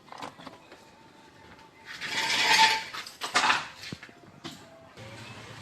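Metal tools and parts clinking during car engine-mount work, with a louder rushing burst about two seconds in and a shorter one a second later; a steady low hum starts near the end.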